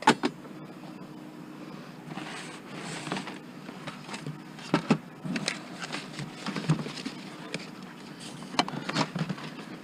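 Discarded junk being rummaged through and handled: irregular knocks and clatters of hard plastic and metal items being moved, with a stretch of rustling, over a steady low hum.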